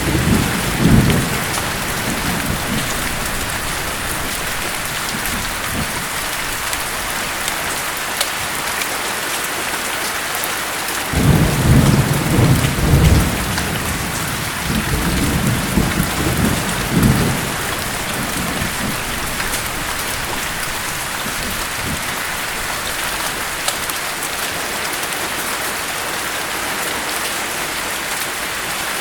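Steady heavy rain hissing, with rolls of thunder: a short rumble at the start and a longer rolling rumble from about eleven seconds in that swells twice and fades by about eighteen seconds.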